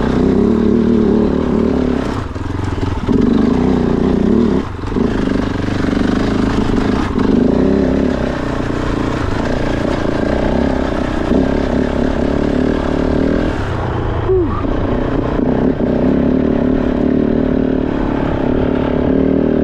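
Kove 450 Rally's single-cylinder engine pulling under load on dirt single track, the revs rising and falling with the throttle, with a few short drops off the gas and one quick rising rev near the three-quarter mark.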